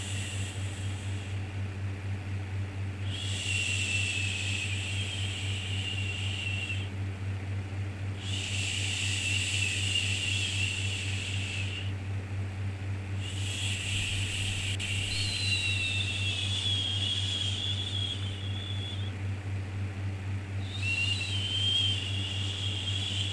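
Repeated soothing 'shhh' shushing sounds for a baby, each a long hiss of a few seconds with a faint whistly edge, coming back about every five seconds, over a steady low hum.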